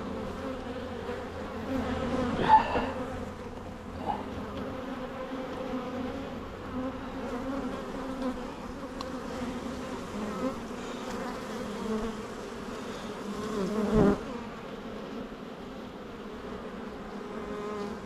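Honeybee colony buzzing steadily around an open hive, with a few brief knocks from frames and hive parts being handled, the loudest about two and a half seconds in and again about fourteen seconds in.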